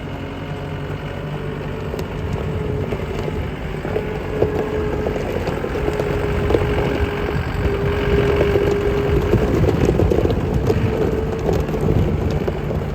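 2015 Gehl V330 skid steer's diesel engine running steadily, with a whine that wavers slightly in pitch and a few light knocks. It gets gradually louder.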